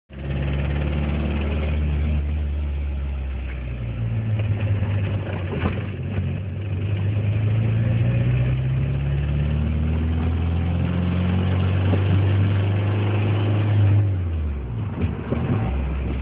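DSM engine running with a tick or knock that the owner cannot place as lifter tick or rod knock. The revs climb slowly for several seconds and drop back about two seconds before the end.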